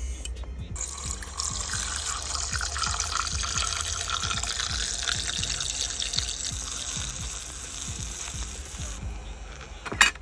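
Water running or pouring for about eight seconds, a steady hiss that stops abruptly, over background music. A few sharp clicks come near the end.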